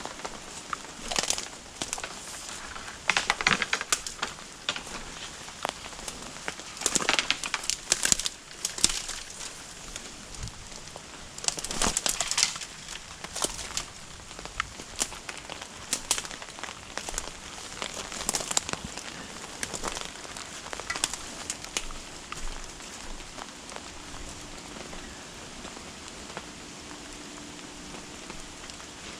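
Steady rain falling, with irregular clusters of sharp clicks and crackles over roughly the first twenty seconds.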